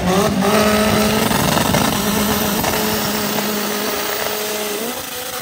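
A Chevette drag car's Volkswagen AP four-cylinder engine held at steady high revs during a burnout, the rear tyres spinning and smoking; the revs drop slightly near the end.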